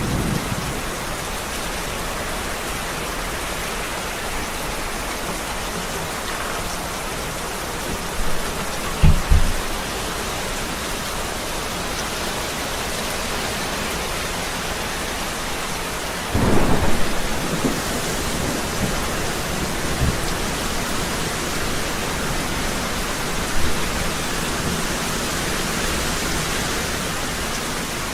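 Heavy rain falling steadily, with thunder: a short crack about nine seconds in and a longer peal starting around sixteen seconds that dies away over a few seconds.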